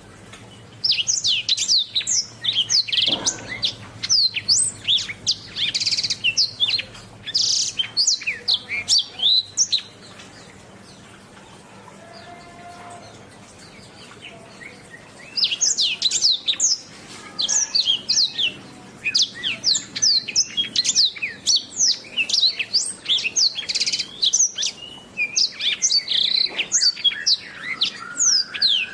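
Domestic canary singing: fast runs of high chirps and trills. The song goes for about nine seconds, stops for about five, then starts again and carries on.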